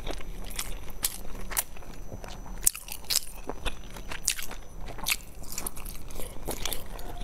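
A person chewing and biting into food, with irregular sharp crunches and clicks.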